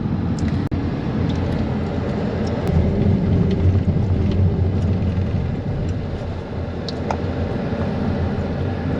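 Steady low rumble of travel along a road: vehicle and road noise, with a few faint ticks.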